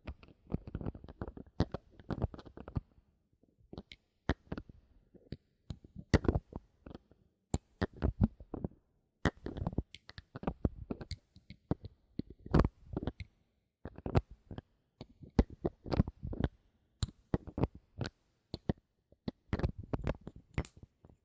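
Bottle caps being handled close to the microphone: irregular sharp clicks and taps in quick clusters, with short pauses between them.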